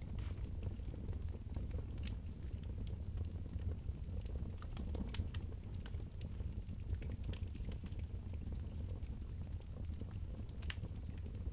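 Wood fire crackling in a fireplace: sparse, irregular sharp pops and snaps over a steady low rumble.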